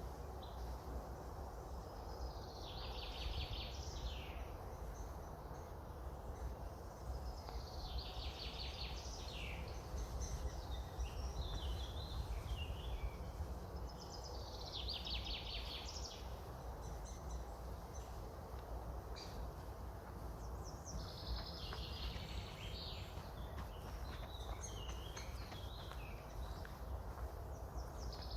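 A songbird singing the same short phrase over and over, with a fast trill in each, about every six or seven seconds, over a steady low rumble of wind.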